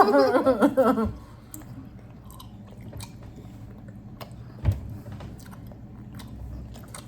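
Chewing of a big mouthful of chewing gum, with scattered small wet clicks and smacks. A single dull thump comes about two-thirds of the way through.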